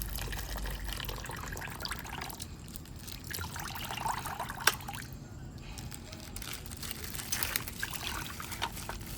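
Crinkling and rustling of a plastic bag being handled and opened, with scattered small clicks.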